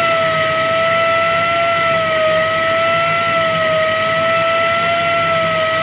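MAN 5L16/24 five-cylinder diesel engine running steadily, a high whine with overtones over a constant mechanical din and a faint low pulsing.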